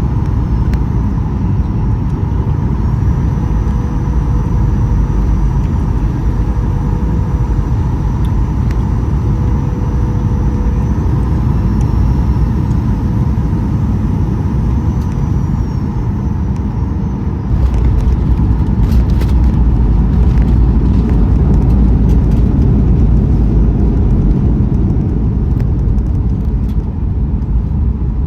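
Cabin noise of a Boeing 737-800 from a seat over the wing: steady rumble of the CFM56 engine and airflow, with a thin high whine that shifts in pitch near the middle. About two-thirds of the way through the rumble grows louder and a few sharp clicks or knocks sound.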